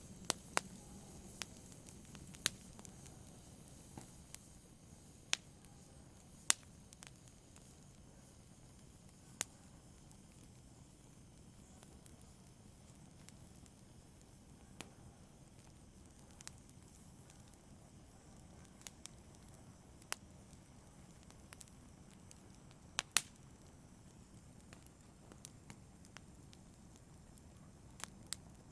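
Wood fire crackling: a low steady hiss of burning with sharp pops at irregular intervals, a close pair of louder pops about two-thirds of the way through.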